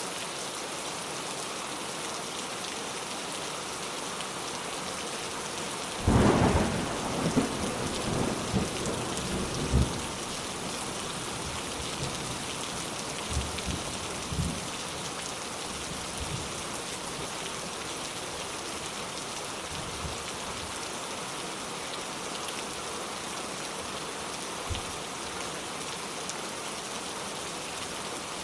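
Steady heavy rain hiss with a thunderclap about six seconds in: a sudden loud crack followed by several seconds of rolling, crackling rumble that fades into fainter distant rumbles.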